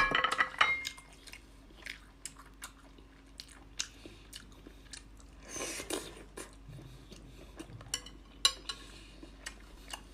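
Close-up eating sounds: a loud crunchy bite right at the start, then chewing with scattered crisp clicks and a longer noisy smear of chewing about halfway through.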